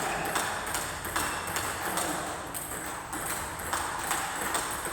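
Racket-sport rally: a quick series of sharp hits, often several a second, ringing in a large hall.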